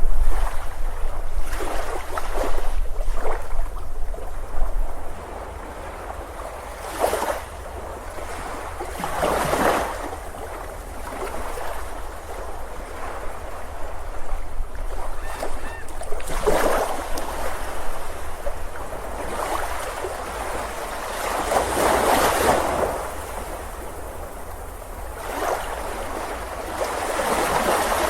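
Ocean surf on a beach: a steady wash of water with waves swelling and breaking every few seconds, over a low rumble.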